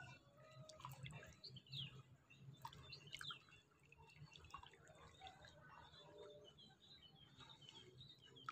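Near silence, with faint bird chirps and calls in the background, most frequent in the second half.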